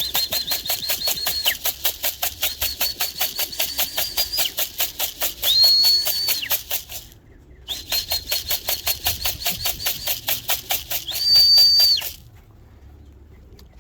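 A whistle blown to call pigeons down to the loft: several high warbling blasts, with two longer steady blasts about five and a half and eleven seconds in, over a fast even rattle of about eight clicks a second. Both break off briefly around seven seconds in and stop about twelve seconds in.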